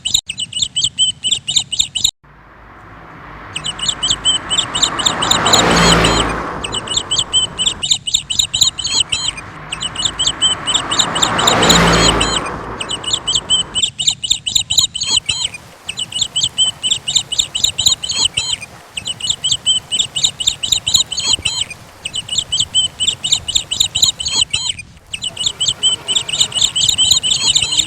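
Birds chirping in fast, repeated high trills, with two rushes of noise that swell and fade, peaking about six and twelve seconds in.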